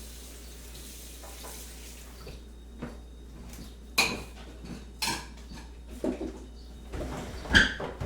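Crockery and cutlery clinking: several sharp, ringing clinks of china and metal, the loudest near the end.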